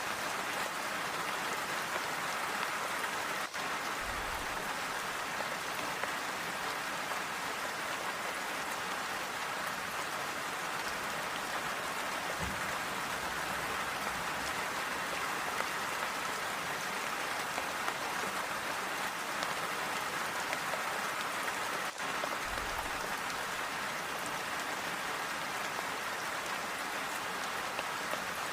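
Steady, even rain falling, with three brief low thuds underneath.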